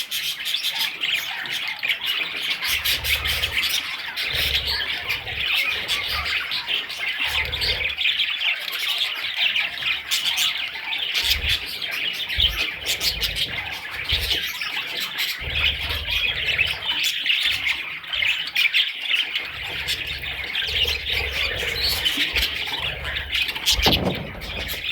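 Many budgerigars chattering and squawking at once, a dense, unbroken stream of overlapping chirps and squawks.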